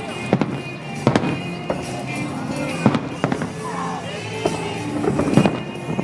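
Fireworks going off: sharp bangs and crackles at irregular intervals, several a second at times, with the loudest burst about five seconds in.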